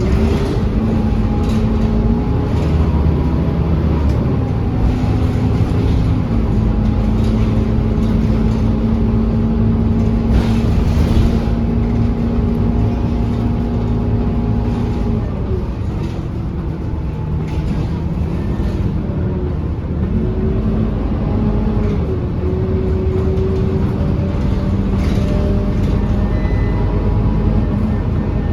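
Scania K230UB city bus engine running under way, a steady drone whose pitch steps up and down several times as the bus changes speed and gear.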